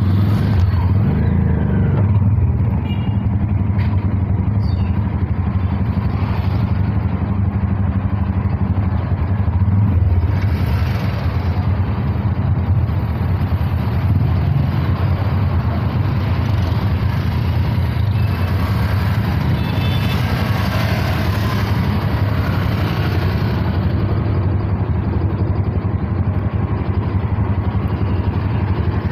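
Motorcycle engine of a covered passenger tricycle running steadily at low speed in stop-and-go traffic, heard from inside the cab as a continuous low drone.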